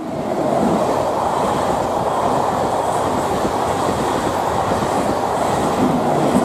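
MEMU electric multiple unit train passing close at full speed, about 110 km/h: a steady, loud rushing noise from the coaches going by.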